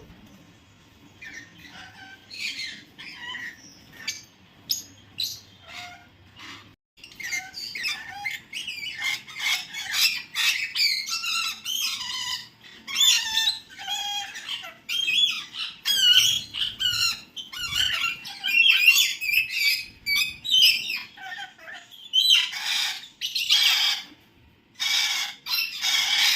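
A group of pet birds chirping and squawking with many overlapping calls, sparse at first and busier from about a quarter of the way in. Several loud harsh squawks come near the end.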